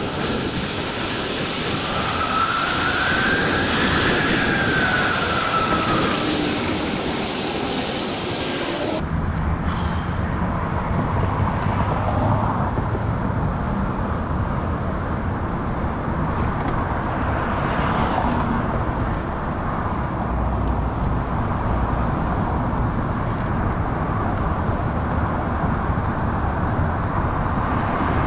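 Bicycle tyres humming loudly on the trail surface as the bike rolls along, with wind buffeting the microphone. A single wail that rises and falls sounds early on, and after about nine seconds the hiss drops away, leaving a lower rumble.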